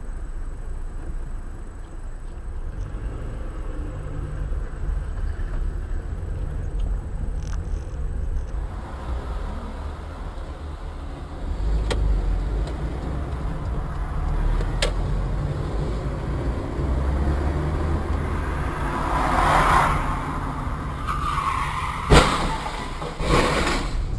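Car driving, a steady low road and engine rumble heard from inside the cabin. A rushing swell comes in a little before the end, followed by a sharp knock and a second one just after.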